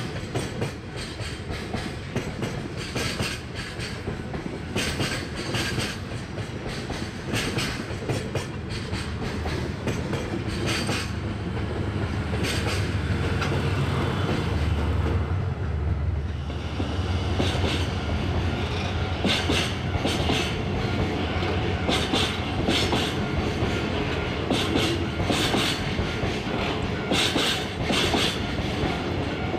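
Diesel-hauled freight train running by, its wagon wheels clacking in repeated groups over rail joints. A diesel locomotive's low engine rumble builds and fades around the middle.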